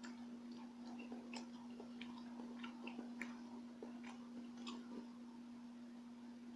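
Close-up chewing and mouth sounds of a person eating Filipino rice cakes (kakanin): a scatter of small, wet clicks, over a steady low hum.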